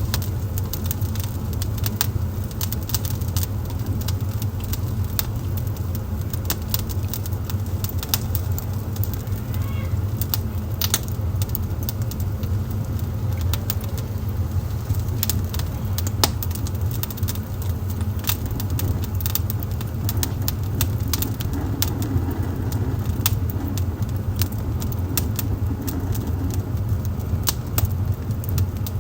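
Wood fire burning in a fireplace: a steady low rumble with frequent, irregular sharp crackles and pops from the burning wood.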